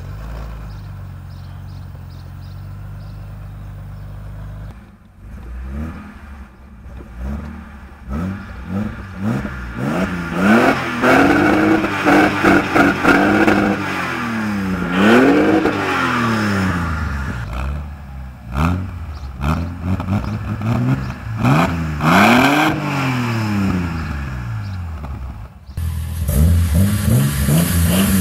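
Toyota Celica Supra MK2's inline-six engine idling steadily just after start-up, then revved repeatedly from about five seconds in, each rev climbing and falling back. Near the end it is heard from outside, running at a higher steady pitch as the car drives off.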